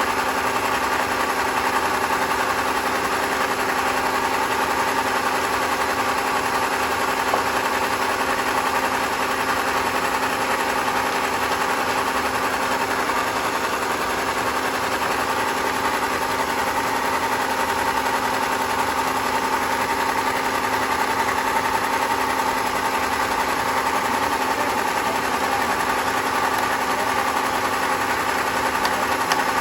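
Sawmill machinery running steadily: an even mechanical hum with a constant whine and no change in load.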